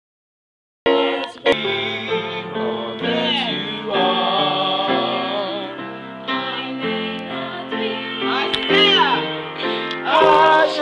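A gospel choir singing a slow, sustained chord line in parts, with the tenors joining the altos. It comes in after about a second of dead silence, with held notes shifting in steps.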